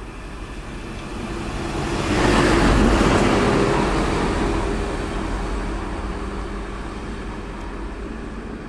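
A train passing close by: a rushing noise that swells, is loudest about two to four seconds in, then slowly dies away.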